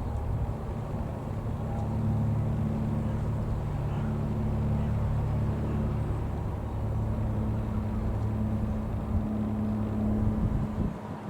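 Cessna 182 Skylane's single six-cylinder piston engine and propeller droning steadily as the light plane flies over, dropping off a little near the end.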